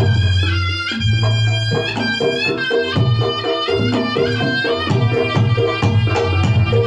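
Reog Ponorogo gamelan music: a reedy trumpet (slompret) plays a stepping melody over kendang drums and steadily repeating percussion strokes.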